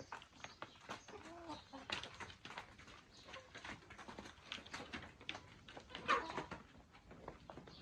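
Chickens clucking with short low calls, among many small clicks and taps; one louder call about six seconds in.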